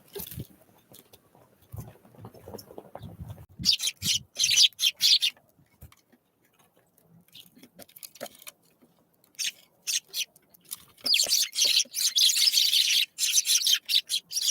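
Small wild birds chirping in quick, dense bursts: a short spell about four seconds in and a longer one from about eleven seconds on. A few faint low knocks come before the first spell.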